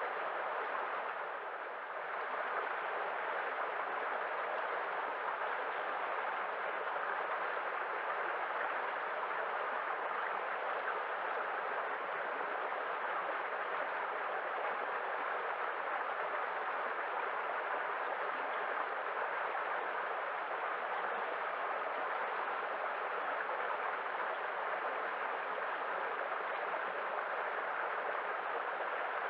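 Running water rushing steadily, an even hiss with no birds heard; it dips briefly about a second and a half in.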